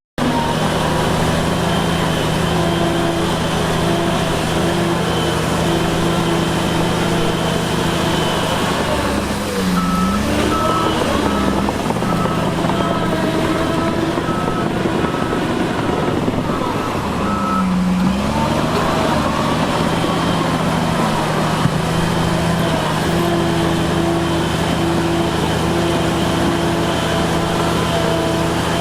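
Heavy diesel engines of earthmoving machinery running steadily, with reversing alarms beeping about once a second: a low-pitched beeper near the start and again near the end, and a higher-pitched one for several seconds in the middle. The engine pitch dips and rises twice around the middle.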